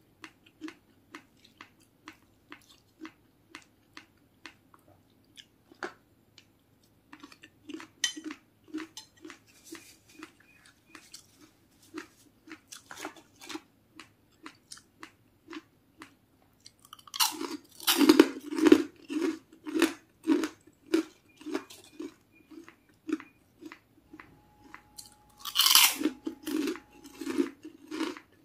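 Close-up chewing of a mouthful of food in a steady rhythm, about two chews a second. Loud crunching bites of crispy fried food come about two-thirds of the way through and again near the end.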